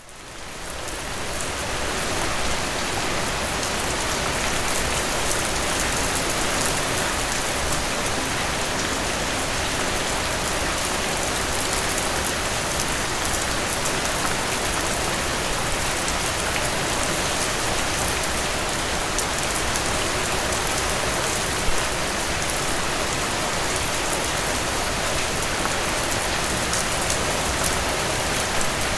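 Steady rain falling, a continuous hiss with many fine drop ticks. It fades in over the first couple of seconds, and one drop lands louder about 22 seconds in.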